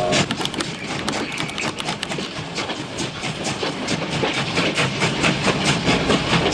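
Train running along a track, its wheels clicking over the rail joints in a steady rhythm of about five clicks a second over a low rumble.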